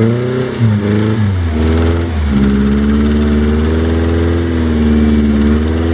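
Rock crawler's engine revving under throttle on a rock climb: the revs dip and recover twice in the first two seconds, then hold at a fairly steady speed with slight wavering.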